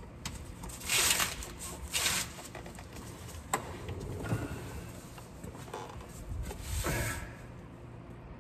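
Handling noises from a drive shaft being lifted and worked into place: several short scraping, rubbing sounds and one sharp metallic click a little past the middle.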